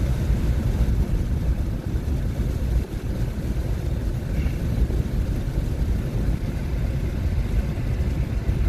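Steady road and tyre noise heard inside the cabin of a moving 2021 Nissan Leaf electric car, a low rumble with no engine note.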